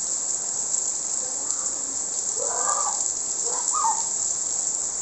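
Steady hiss of falling rain, with two faint short calls in the distance a little past the middle.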